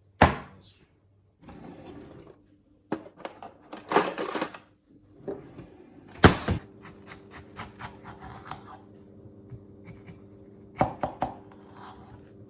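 A series of sharp knocks and clatters of objects being handled and set down. From about six and a half seconds a steady low hum starts and carries on under them.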